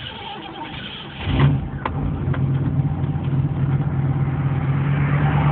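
Carbureted 350 small-block V8 of a 1984 Camaro Z28 cold-starting. It fires up about a second in and settles into a steady fast cold idle.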